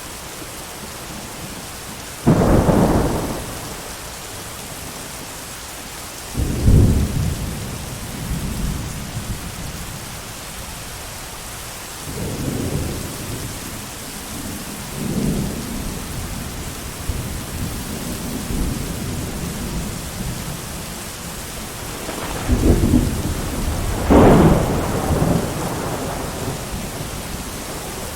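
Thunderstorm: steady heavy rain with repeated peals of thunder. Sudden loud claps come about two and six seconds in, softer rumbles follow in the middle, and a double peal, the loudest, comes near the end.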